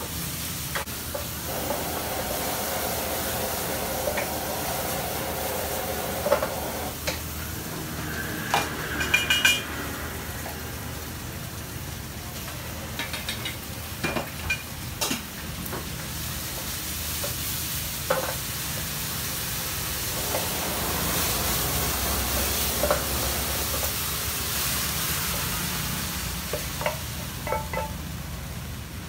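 Meat filling sizzling in a wok as it is stir-fried with a wooden spatula. Scattered short knocks and clinks of the spatula and utensils against the pan.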